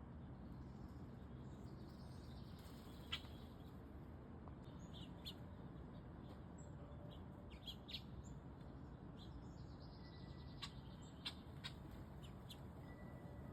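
Small birds chirping faintly: short, high, scattered chirps over a low steady background hiss.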